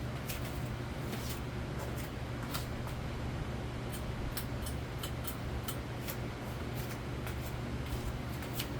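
42-inch Nadair spinner ceiling fan running on high speed: a steady motor hum under a rush of moving air, with scattered light clicks.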